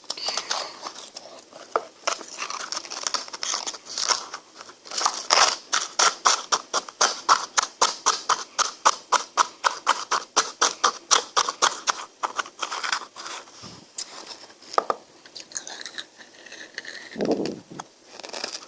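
Close-miked eating of an ice cream bar: crisp, crunchy chewing of icy bites, settling into a steady rhythm of about four chews a second in the middle, then slowing, with a lower sound near the end.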